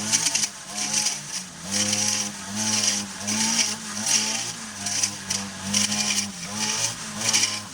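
Petrol brush cutter running, its engine revs rising and falling again and again while it cuts through grass.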